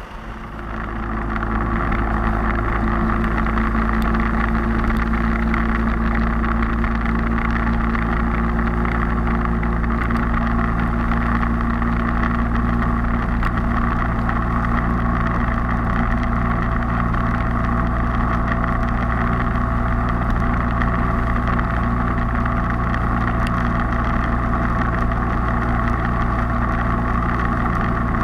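Motorcycle engine running steadily on the road, with the road and wind noise of riding. It builds up over the first second or two, then holds an even pitch.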